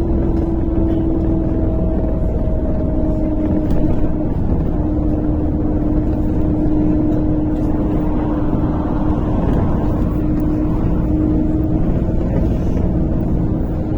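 A MAZ-103 city bus driving, heard from inside the passenger cabin: a steady drone of engine and drivetrain over road rumble, with a whine whose pitch sinks slightly.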